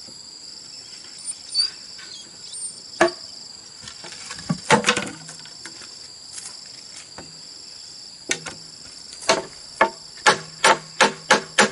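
Hand-tool blows on bamboo: scattered knocks at first, then, near the end, a steady run of about two to three strikes a second. Insects keep up a steady high-pitched trill throughout.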